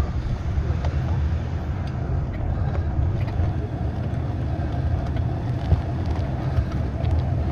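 Steady low rumble and rattle of the ride's vibration picked up through the camera rig, with a few small clicks; a buzzing that the rider puts down to vibrating armrests or the DJI camera mount.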